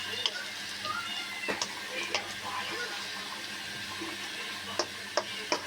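Kitchen sounds: a steady wash of background noise like running water, with a few short, sharp clinks scattered through it.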